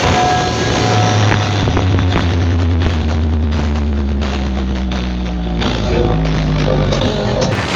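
Loud music from a large carnival sound system, dominated by deep held bass notes with dense percussion over them.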